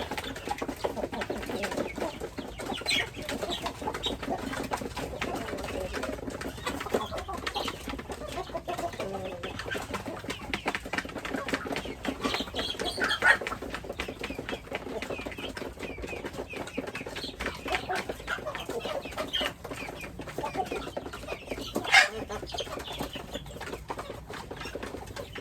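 A flock of chickens clucking and calling continuously, with a couple of louder sharp calls standing out about halfway through and near the end.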